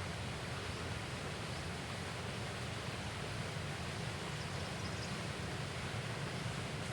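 Steady outdoor background noise with no distinct events, and a faint high-pitched note about four and a half seconds in.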